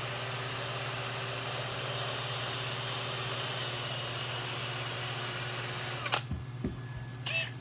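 Handheld angle grinder running steadily, cleaning slag off a fresh flux-core weld on a steel minibike frame. It cuts off suddenly about six seconds in, followed by a few light knocks as it is handled.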